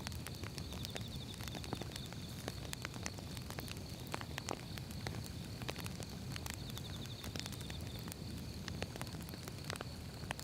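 Firewood burning, with irregular sharp crackles and pops over a low, steady rumble of the flames.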